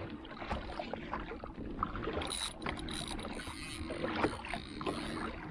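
Handling noise aboard a kayak while a freshly hooked salmon is being fought on a trolling rod: scattered light clicks and knocks over a steady hiss of water and wind.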